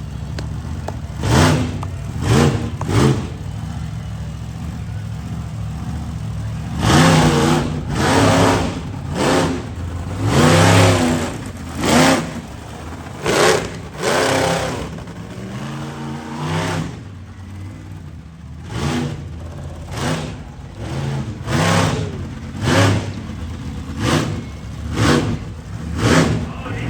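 Monster truck engine revved in short, repeated throttle bursts, each rising and falling in pitch, with a run of longer, louder revs in the middle.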